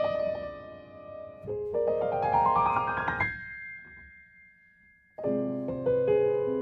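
Background piano music: a rising run of notes that rings out and dies away into a short pause, then the piano comes back in with fuller chords about five seconds in.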